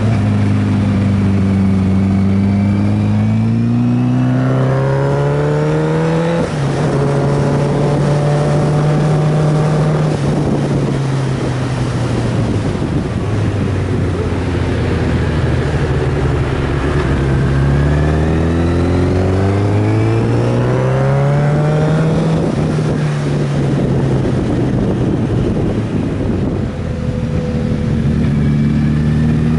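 Sport motorcycle's inline-four engine riding under load. The revs climb and drop sharply at an upshift about six seconds in, fall away as it slows, then climb twice more, with a steady rush of wind noise underneath.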